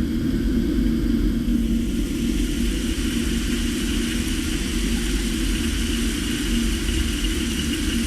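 DMG MORI M1 CNC vertical milling machine running steadily while machining a steel part. A low hum carries throughout, and a thin high whine comes in about two seconds in.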